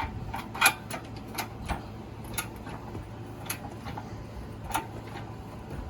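Sharp metallic clicks and knocks, roughly one a second, as lifting gear is worked to raise an engine out of a car's bay, over a steady low hum.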